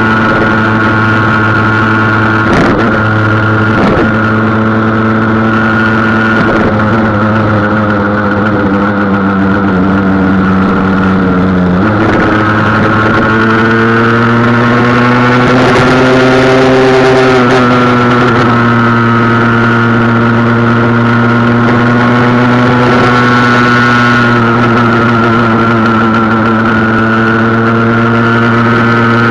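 Husqvarna SM 125 two-stroke single-cylinder engine running under way, its restrictors cut out of the exhaust diffuser. The engine note sinks slowly, changes abruptly about twelve seconds in, climbs again a few seconds later and then holds steady, with two sharp clicks early on.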